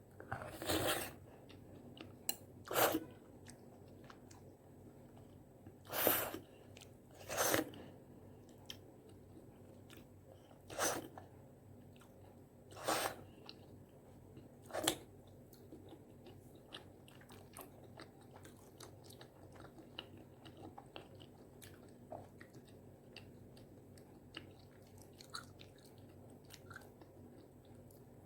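Close-miked eating of spicy tteokbokki rice cakes: seven loud bites spaced a couple of seconds apart in the first half, then steadier, softer chewing with small wet clicks.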